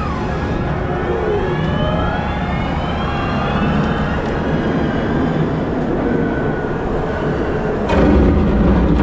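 Wheel loader working under load: a steady engine rumble with shifting, rising and falling whines throughout, swelling louder with a sharp knock about eight seconds in.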